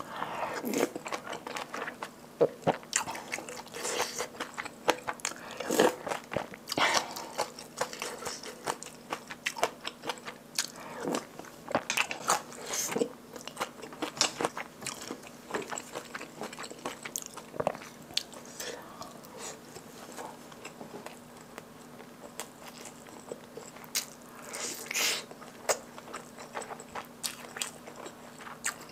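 Close-miked eating sounds: a person chewing mouthfuls of kimchi stew, with irregular wet smacks and clicks, busiest in the first seconds and in short spells later on.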